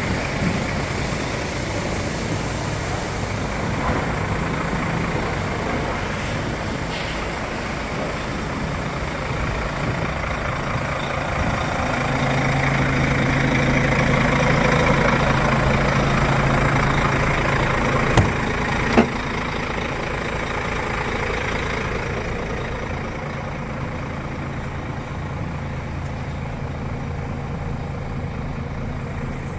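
Iveco Stralis AS440 S50's Cursor 13 inline-six diesel engine running steadily at idle, growing somewhat louder through the middle stretch before settling again. Two sharp clicks come one after the other about two-thirds of the way through.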